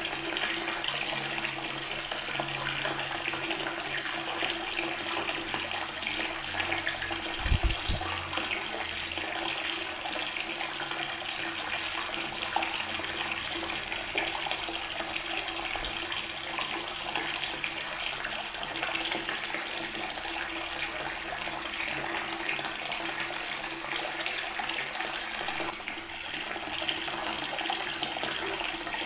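Water tap running steadily, the stream splashing onto natural stone. A brief low thump comes about a quarter of the way in.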